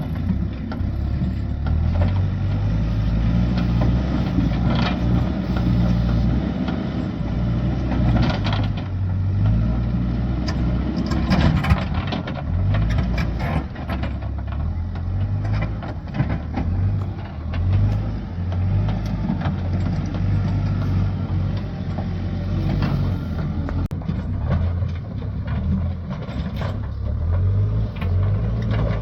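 Excavator's diesel engine working under changing load, with repeated clanks and knocks of rubble and big stones being pushed, busiest about a third of the way through.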